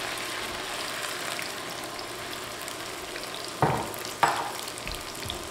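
Sliced okra frying in hot olive oil in a cast iron Dutch oven: a steady sizzle just after the okra goes into the oil. Two sharp knocks come a little past halfway.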